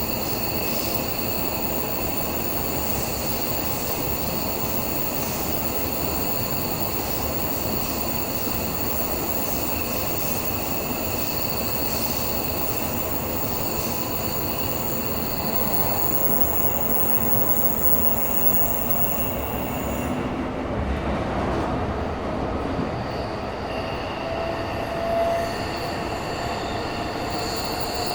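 Tokyo Metro 17000 series train running, heard from inside the carriage: steady wheel-on-rail and running noise. A faint rising whine comes in near the end.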